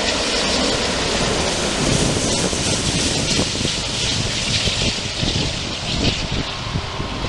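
Jet engines of a wide-body airliner at the airport, a steady loud rushing noise with no change in pitch.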